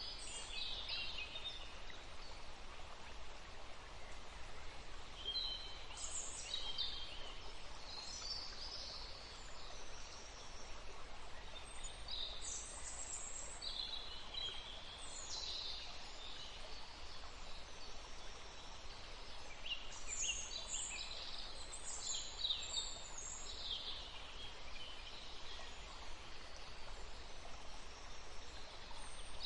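Wild songbirds chirping and singing in short, high-pitched phrases that come in bursts with brief lulls between, over a steady background hiss.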